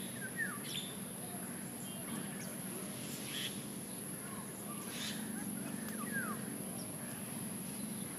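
Birds chirping in the surrounding trees: short downward-slurred notes near the start and again about six seconds in, with a few brief high chips between, over a steady low background hum.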